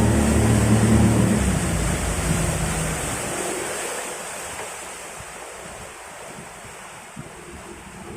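Motorboat engine running, then dying away in the first few seconds, leaving wind and rushing water that slowly die down.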